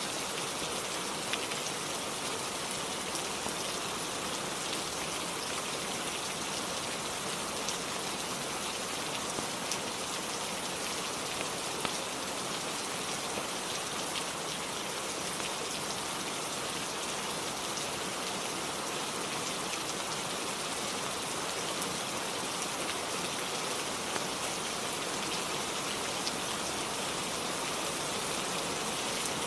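Steady rainfall, a constant hiss with scattered sharper drop ticks.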